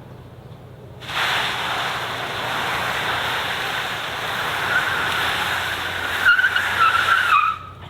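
Car tyres squealing in a long skid. The squeal starts suddenly about a second in, wavers in pitch, and cuts off suddenly near the end.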